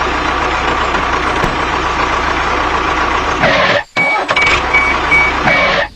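Small engine running steadily. It breaks off for a moment about four seconds in, and a high beeping repeats over it near the end.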